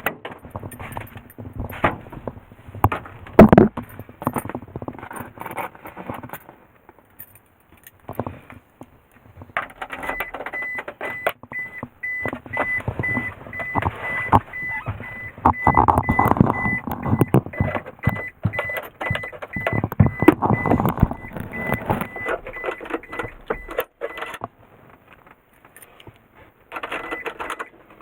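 Keys jangling and irregular knocks and clicks of handling inside a Suzuki Carry kei truck, before its engine is started. From about ten seconds in, a high electronic warning beep repeats rapidly for about fourteen seconds, then stops.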